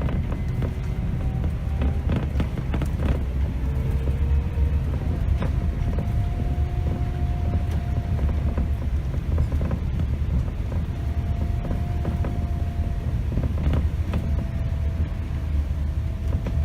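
Cabin sound of a Scania K270 city bus under way: a steady low diesel engine rumble with a thin whine that drifts slowly up and down in pitch, and scattered rattles and creaks from the bodywork.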